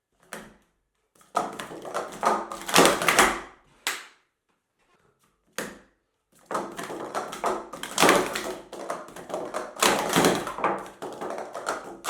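Plastic sport stacking cups clattering in rapid runs of quick taps as they are stacked up and brought down, two long bursts with a few single clicks between.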